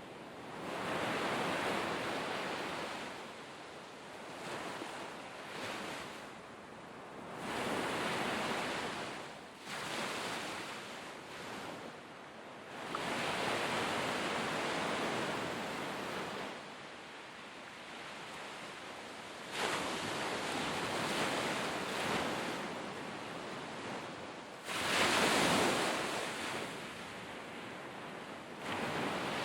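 Sea waves breaking on the shore, each one swelling and washing back about every five to six seconds, the loudest near the end.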